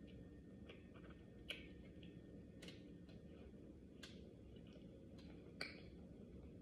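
Faint, irregular clicks and smacks of someone eating, over a low steady room hum; the sharpest come about a second and a half in and again near the end.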